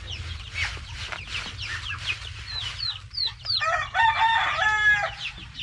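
Chicks peeping continuously in quick, high, downward-sliding notes, with a rooster crowing once, loudly, for about a second and a half starting a little past halfway.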